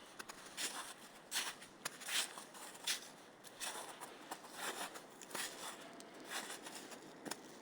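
Footsteps crunching on the forest floor: a steady walking pace of roughly one step every three-quarters of a second.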